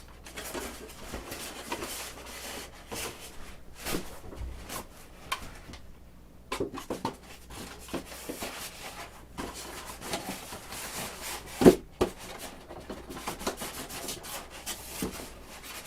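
Hands fitting an RC airplane's landing gear into the foam packing of its box: irregular rubbing of parts against foam with scattered light clicks, and one louder knock near twelve seconds in.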